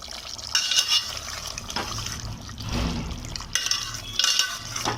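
Chicken curry being stirred in a cooking pot with a spoon, in several short wet strokes.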